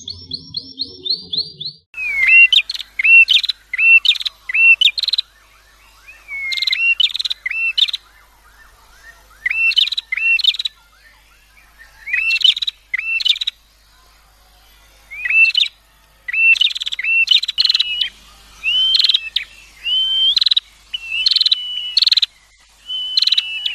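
A songbird singing loud, repeated short phrases of sweeping whistled notes, with short pauses between phrases. It opens with a quick run of notes in the first two seconds.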